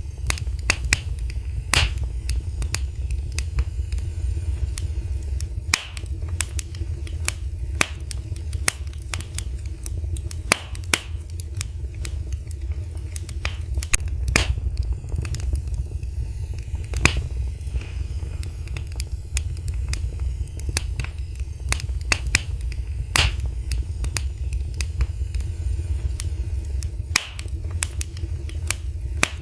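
Wood fire burning in a fireplace: a steady low rumble of flames with irregular sharp crackles and pops, several every second, a few of them louder.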